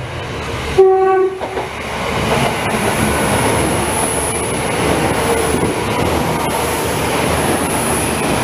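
Northern Ireland Railways diesel multiple unit sounds one short horn blast about a second in, then passes close by with a loud, steady rumble of engine and wheels on the rails, a thin high whine running over it.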